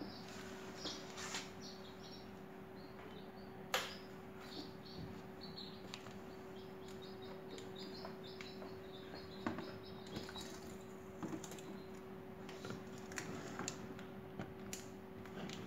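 Faint high chirping from small birds, in short irregular notes, over a steady low hum, with a few sharp clicks, the loudest about four seconds in.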